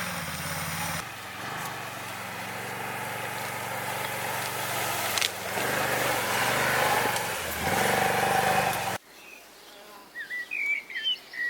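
A small engine runs steadily, its level shifting a little, then stops abruptly about nine seconds in. A few short bird chirps follow near the end.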